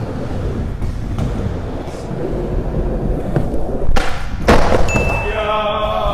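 Skateboard wheels rolling on smooth flat ground, then two loud smacks about half a second apart near the end: the board popping and landing a flip trick. A voice calls out just after.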